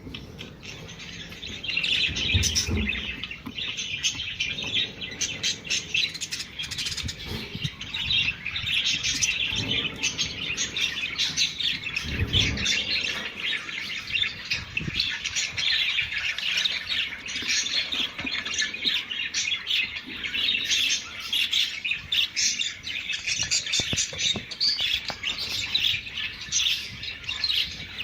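Budgerigars chattering and warbling without pause, a busy stream of chirps and squawks: the budgie mating-call chatter played to prompt breeding. A couple of dull thumps come through about two seconds in and again around twelve seconds.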